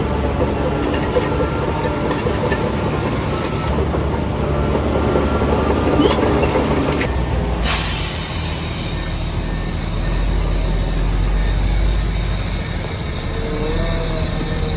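Heavy earthmoving machinery working: a diesel engine runs steadily, with metallic squeals near the end. About eight seconds in, a steady hiss suddenly comes in.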